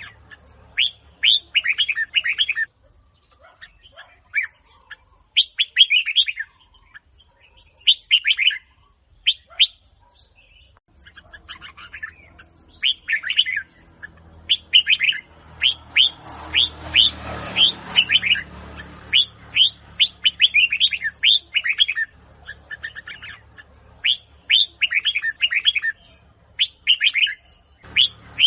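Red-whiskered bulbul of the Huế type (chào mào Huế) singing: short, quick phrases of bright chirping notes, one every second or two, with a faint low rumble about halfway through.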